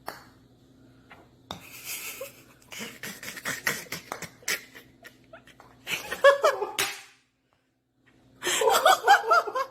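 Laughter in two loud bursts, about six seconds in and again near the end, after a few seconds of scattered knocks and rustling.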